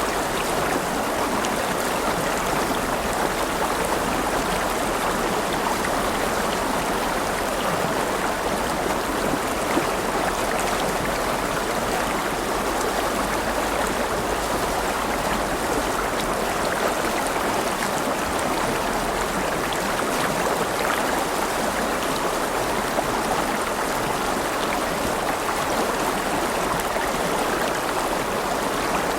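River water flowing over rocks: a steady, even rush and babble with no breaks.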